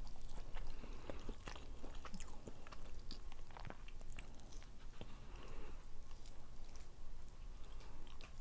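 Close-up chewing of rotisserie chicken: many small mouth clicks and smacks, with chicken meat being pulled apart by hand.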